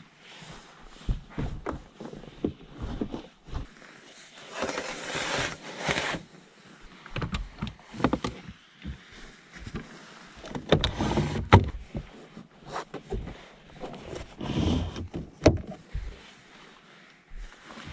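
Irregular handling noises around a car: clicks, knocks and short bursts of rustling as things are moved and doors or panels are worked.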